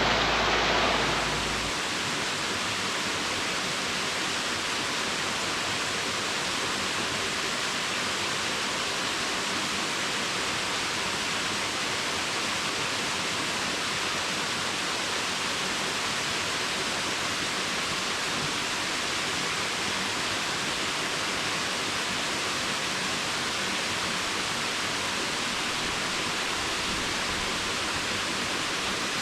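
Waterfall: a steady rush of falling water, a little louder and fuller for the first second or so, then even.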